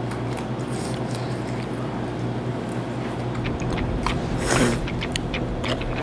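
A person chewing and sucking on a piece of crab, with wet mouth noises and small crunching clicks, and one louder wet burst about four and a half seconds in.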